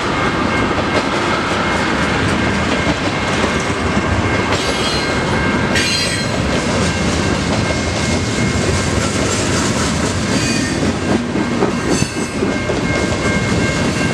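Freight cars of a Canadian National mixed freight train rolling past: a steady heavy rumble of steel wheels on rail with clickety-clack over the rail joints. A few sharper clanks come about four to five, six and twelve seconds in, over a thin steady high-pitched tone.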